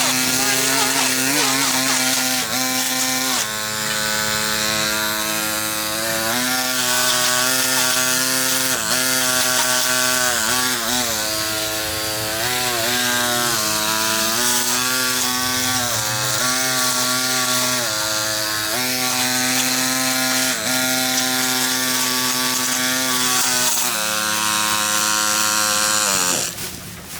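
Small two-stroke power tool engine running at high revs. Its pitch dips and recovers every second or two as it bites into growth, and it drops away near the end.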